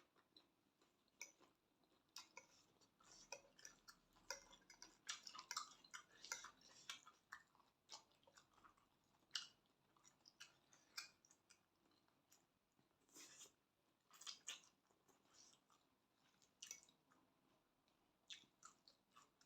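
Faint, irregular chewing and mouth sounds: soft wet smacks and small crunches of someone eating a spicy glass-noodle and seafood salad.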